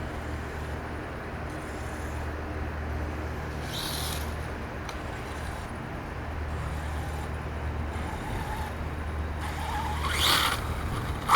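Steady low outdoor hum, broken by two short hissing bursts about four and ten seconds in. The bursts fit a 1/5-scale electric RC monster truck lurching in short spurts instead of driving smoothly, a sign its radio signal is cutting out, which the driver blames on dying remote batteries.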